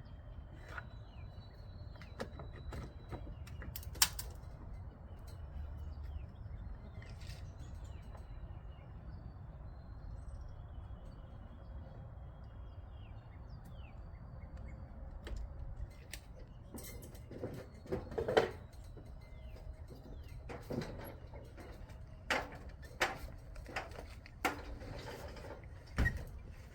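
Birds chirping faintly over a low steady rumble, with scattered sharp knocks and taps. The knocks are louder and more frequent in the second half.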